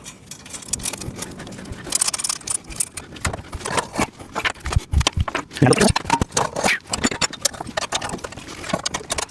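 Hand tool tightening loose screws on a steel folding welding table: a run of irregular metal clicks, taps and scrapes.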